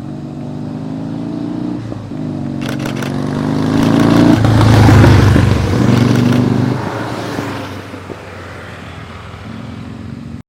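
Motor vehicles passing on the road, engine sound building to its loudest about five seconds in and then fading away. A quick run of sharp clicks sounds near three seconds in.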